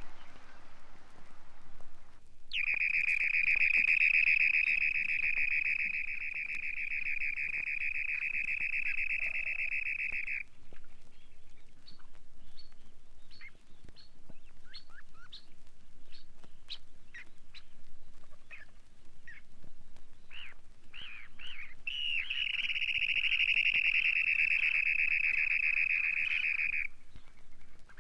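Dunlin trilling: a long, even, high trill lasting about eight seconds, then a run of short scattered call notes, then a second long trill of about five seconds near the end.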